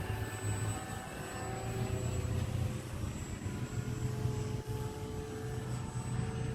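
Battery-powered motor and propeller of a homemade RC Cessna model plane in flight, a steady drone holding nearly one pitch that edges slightly higher, over a low rumble.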